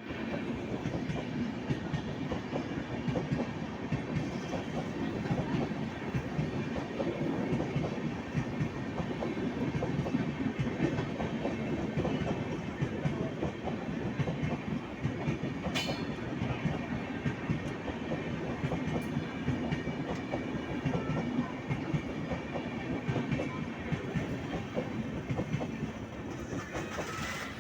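A train running past close by, its wheels clattering steadily over the rails, with one sharp click about halfway through.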